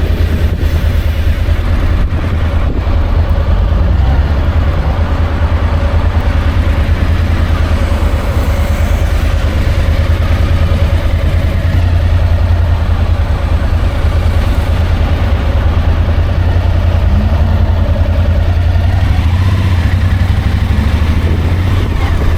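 Suzuki adventure motorcycle's engine running steadily while riding, under a heavy low rumble of wind on the microphone.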